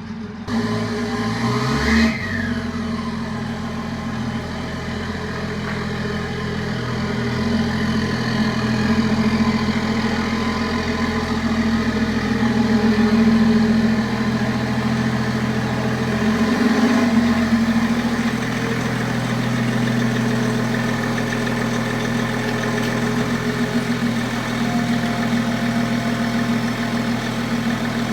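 BMW X5's engine running at low speed, with a brief rev about two seconds in.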